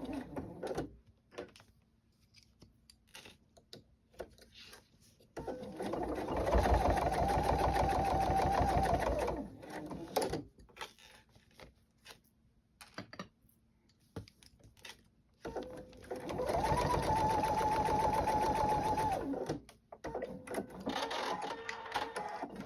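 Electric sewing machine stitching in two runs of about four seconds each, its motor whine rising quickly to a steady speed and holding, then stopping. Small clicks and handling noises fill the pauses between runs.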